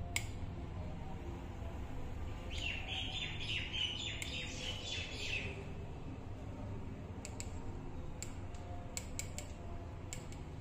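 Birds chirping in a quick run for about three seconds, a few seconds in, over a steady low hum. Several light clicks of a knife tip against the stone slab come near the end.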